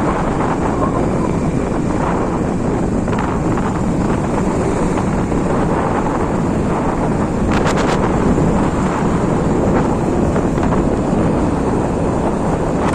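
Wind buffeting the camera microphone on a moving bike ride, a loud steady rush with the bike's running noise underneath and a brief cluster of clicks about seven and a half seconds in.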